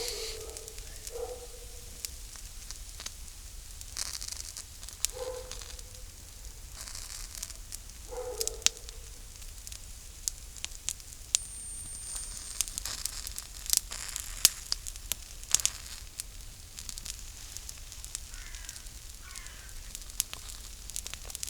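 Campfire crackling steadily, with many sharp pops of burning wood.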